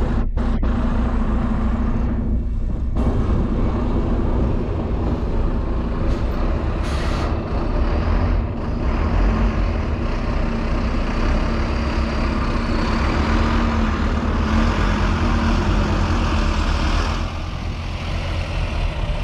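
Double-decker bus running, heard from on board: a steady low engine hum with road noise, and a short hiss of air about seven seconds in.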